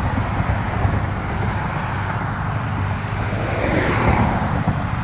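Road traffic noise: a steady low rumble with a vehicle passing by, loudest about four seconds in.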